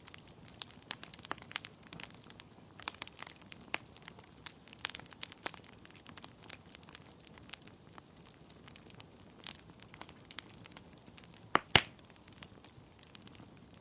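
Wood logs burning in a fireplace, crackling with irregular small snaps and pops over a faint hiss, and a louder sharp double pop near the end.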